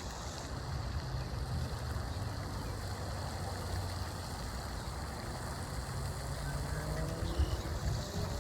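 A low, steady engine hum from a motor running at a distance, rising slightly in pitch near the end.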